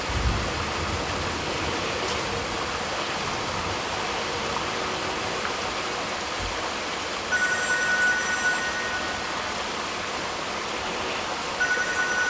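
Steady rush of flowing floodwater. A thin high tone comes in over it twice, for about a second and a half each time, in the second half.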